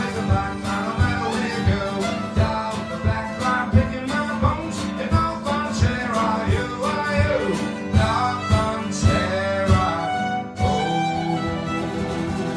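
Live acoustic folk band playing an instrumental passage: a fiddle melody over strummed guitar with a steady beat of about two a second. Just after ten seconds in the playing drops briefly and the strumming carries on more evenly.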